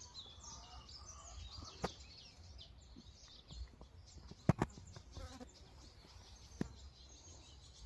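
Small birds chirping and twittering, with a few sharp clicks, the loudest about four and a half seconds in.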